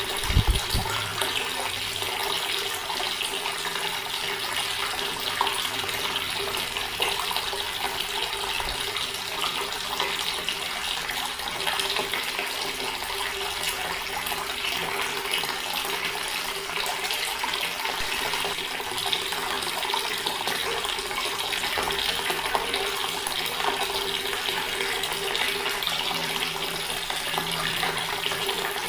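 Water running steadily from a tap, an even rushing flow, with a brief low thump about half a second in.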